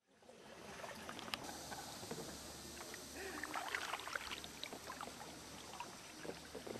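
Faint water sounds of a sea canoe being paddled: light paddle splashes, drips and small knocks against a soft wash of water.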